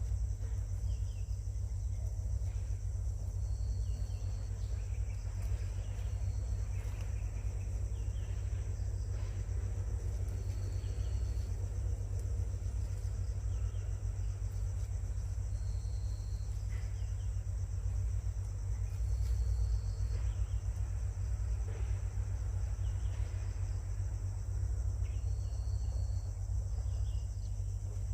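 Outdoor insect chorus, a steady high drone, over a constant low rumble. Short high-pitched notes sound about half a dozen times.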